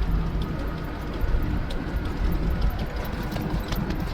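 Steady low rumble of a tow truck's engine and tyres heard from inside the cab while driving, with a few faint clicks.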